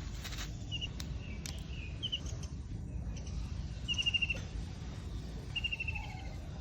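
A small bird calling in short, quick runs of high notes, four times, over a steady low rumble.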